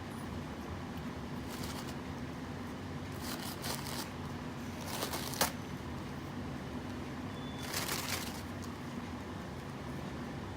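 Steady low room hum, with a few brief rustles and a sharp click about halfway through, from handling during a bird's veterinary exam.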